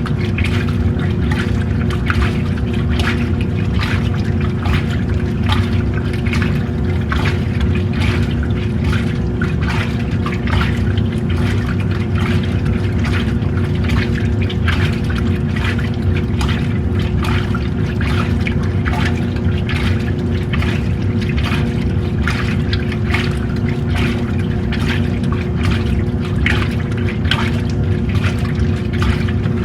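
Old-style washing machine running with a steady motor hum while water sloshes and splashes inside the tub.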